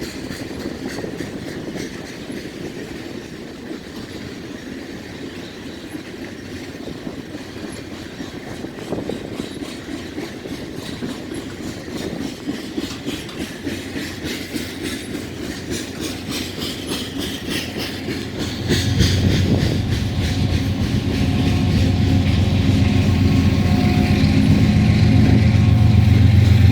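A long train rolling over a railway bridge, its wheels clicking in a steady rhythm over the rail joints. About two-thirds of the way through, a loud steady engine drone comes in and grows louder.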